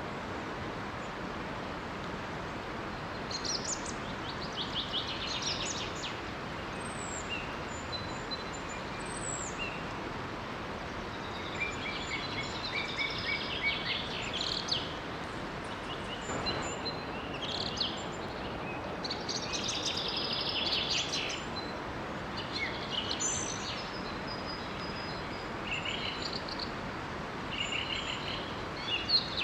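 Several songbirds chirping and singing over the steady rush of a small waterfall.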